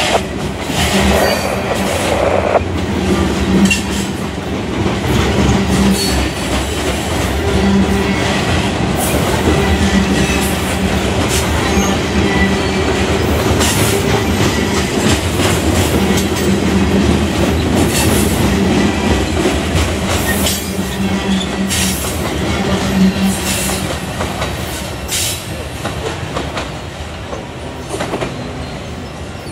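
Freight train of covered hopper cars rolling past close by: a steady rumble of steel wheels on rail, with irregular clicks over the rail joints and an on-and-off low drone. It fades a little near the end as the last cars go by.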